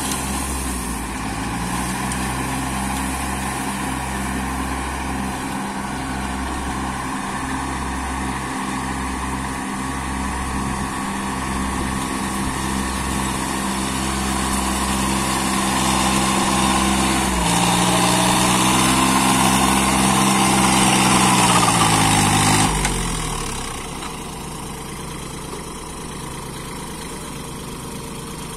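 Kubota 21 hp tractor's diesel engine running steadily, picking up speed a little past halfway, then dropping back to a lower, quieter idle shortly before the end.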